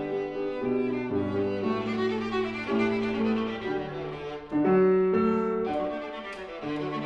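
Viola playing a slow, sustained melody over piano accompaniment, with a louder, accented note entering sharply a little past the middle.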